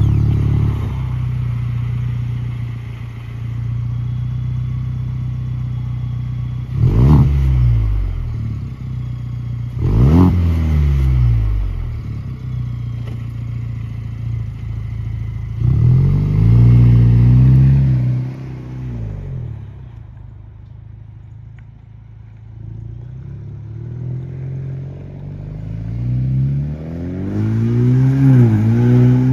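2021 Ford Ranger's 2.3-litre EcoBoost four-cylinder running through a Roush cat-back exhaust, idling and being revved: two quick blips about seven and ten seconds in, a longer held rev around sixteen seconds, and another rev building near the end.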